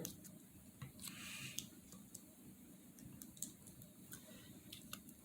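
Very quiet handling noise: scattered faint clicks, with a soft rustle about a second in, from a small sour cream container being handled and opened.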